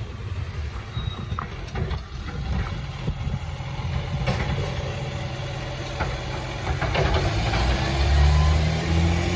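Diesel engine of a garbage truck running, with light knocks and clicks; the engine revs up and gets louder near the end.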